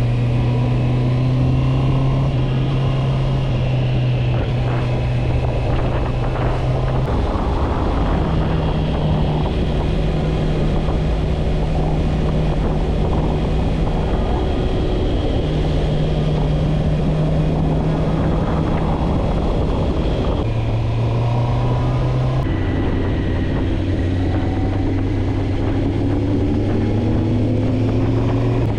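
Motorcycle engine running while riding, its low note holding steady for several seconds at a time and then stepping to a new pitch, about half a dozen times.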